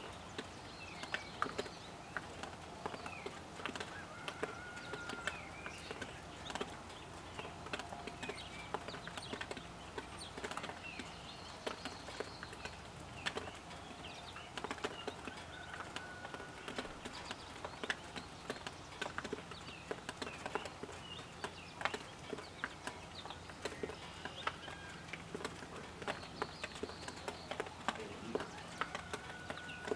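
Birds chirping throughout, with a short held whistle-like note every ten seconds or so, among many short sharp taps or clicks.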